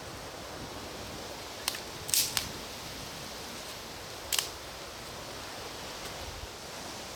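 Campfire wood popping and cracking: a few sharp snaps, a cluster of them about two seconds in and another a couple of seconds later, over a steady hiss.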